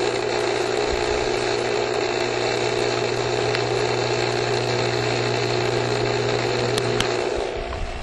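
Steady mechanical hum of a motor-driven outdoor machine, with a fixed low buzz and a hiss over it, much like a refrigerator running. It fades out near the end.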